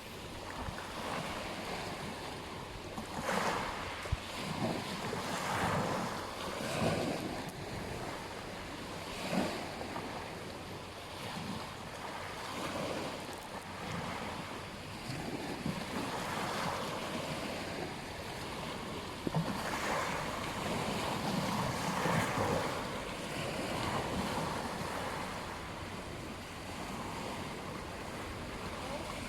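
Ocean surf breaking and washing onto a beach, in repeated swells every few seconds.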